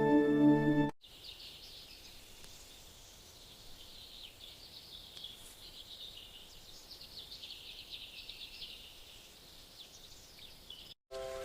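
Soft music for about the first second, cutting off suddenly; then a faint, dense chorus of many small birds chirping high-pitched and continuously, which stops abruptly near the end.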